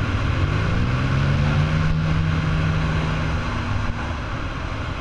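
Off-road engine under throttle on a trail: it revs up over the first second or so, holds steady, then eases off about three and a half seconds in.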